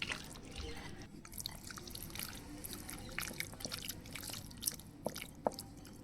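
Water dripping and trickling, with many small irregular drips and two sharper clicks near the end.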